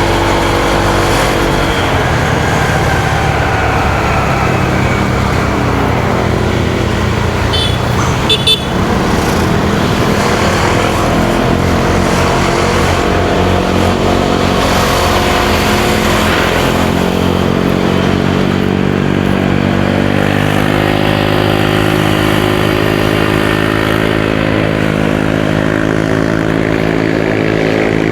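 Motorcycle engine running on the road amid traffic noise, its pitch climbing steadily over the last ten seconds as it speeds up. A short horn-like toot sounds about eight seconds in.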